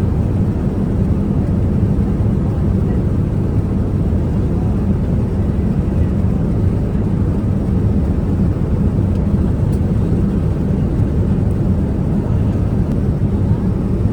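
Steady low rumble of a Boeing 787-9's engines and airflow, heard from inside the economy cabin in flight.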